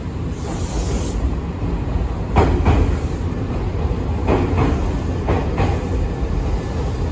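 A Nankai electric commuter train pulling in alongside the platform: a steady low rumble, with groups of sharp clacks from its wheels crossing rail joints, starting about two seconds in.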